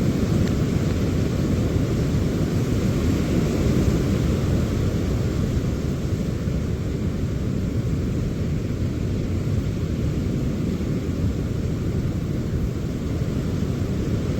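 Wind and heavy rain of a passing rainstorm: a steady, loud rushing with a deep rumble.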